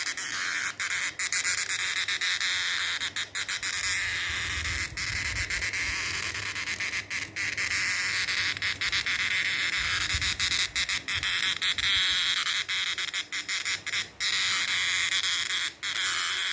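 Male cicada calling: a loud, continuous high buzz broken by many very brief gaps.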